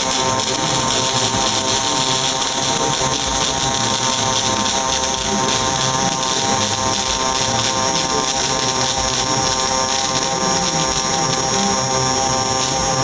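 Panasonic welding robot's pulsed MIG/MAG arc, a steady buzz with a hiss over it that runs without a break.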